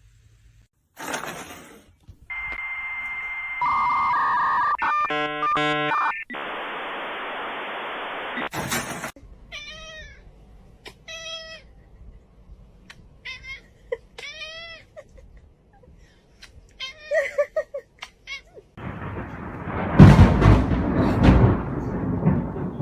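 A domestic cat meowing repeatedly, about six short meows a second or so apart. Before the meows come loud, steady electronic-sounding tones, buzzing and hiss, and in the last few seconds a loud, noisy rumble.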